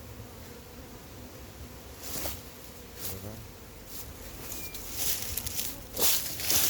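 Honey bees buzzing around an opened wild hive, a steady drone. Short rustles and knocks from handling come in from about two seconds in, the loudest near the end.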